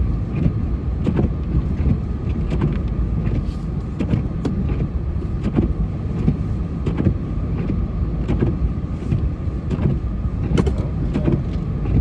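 Snowplow vehicle's engine running steadily while plowing, with irregular knocks and bumps throughout.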